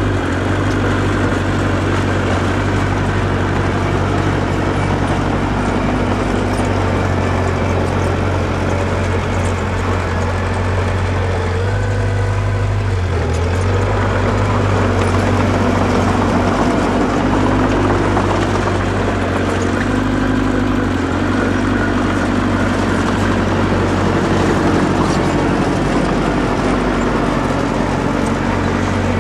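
Diesel engine of earthmoving machinery running steadily under load, with small shifts in engine speed about halfway through and again a little later.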